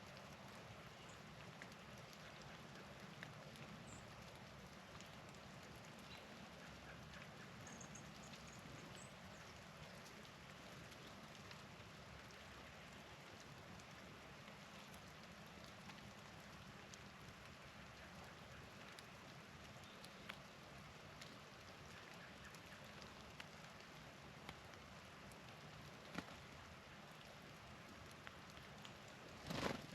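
Faint, steady patter of falling snow in a snowstorm. There are a few faint high chirps, and one sharp knock near the end.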